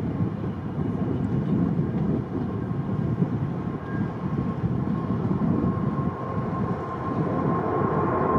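Jet engines of a Boeing 777-200 running at takeoff power, a steady rumble with a thin fan tone that grows stronger near the end. Strong wind buffets the microphone, making the low rumble swell unevenly.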